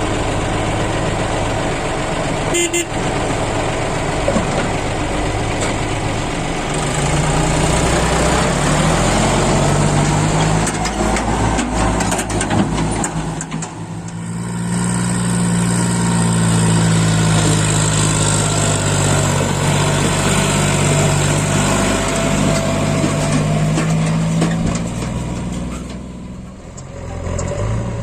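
Heavy diesel engine revving up and running hard at high speed. Its pitch dips briefly about halfway through, then holds high and drops away near the end.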